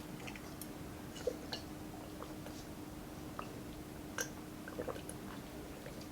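Someone chewing a mouthful of food, heard as soft, scattered mouth clicks and smacks over a faint steady hum.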